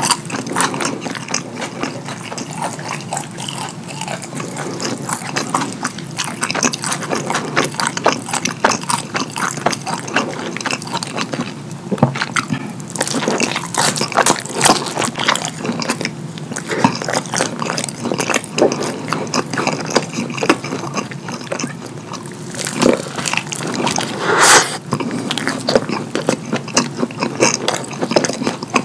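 Close-miked wet chewing and lip smacking of a Domino's chicken alfredo pizza slice drenched in cheese sauce, a steady stream of sticky clicks and squelches, with one louder, longer wet sound about 24 seconds in.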